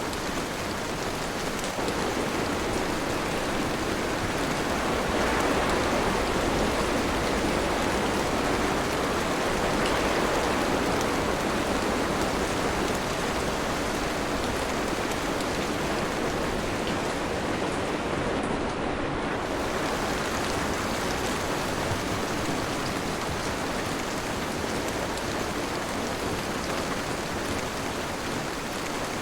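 Steady heavy rain, a constant hiss of falling water that swells a little for several seconds a few seconds in.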